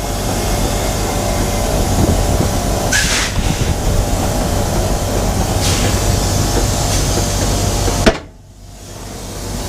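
Semi truck's diesel engine running with a steady low rumble, with two short hisses about three and six seconds in. Near the end a sharp knock is followed by a sudden brief drop in the sound.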